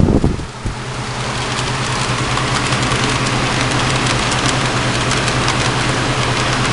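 Model train running on track: a steady motor hum with many light clicks from the wheels on the rails. A louder rumble at the very start drops off within half a second, then the hum builds back and holds steady.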